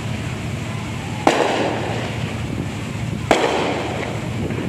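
Aerial fireworks going off: two sharp bangs about two seconds apart, each trailing off over a second or so, over steady background noise.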